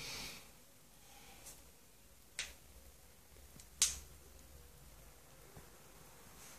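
Two sharp finger snaps about a second and a half apart, the second louder.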